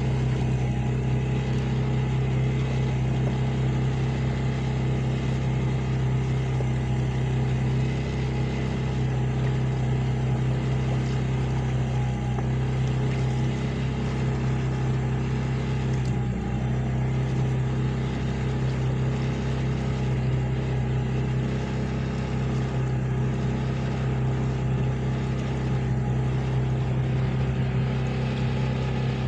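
Boat engine running at a constant speed, a steady low drone that does not change.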